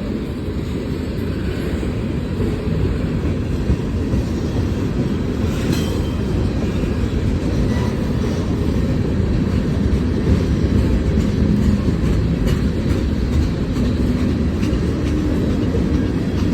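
Freight train rolling past: a steady low rumble of the cars on the rails that grows slightly louder, with a few faint clicks.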